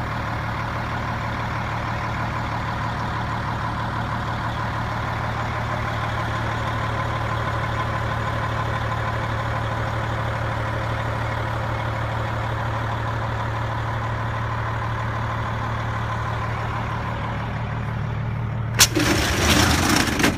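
A fire engine's engine idling steadily with a low hum. Near the end comes a sudden loud rushing burst lasting about a second and a half.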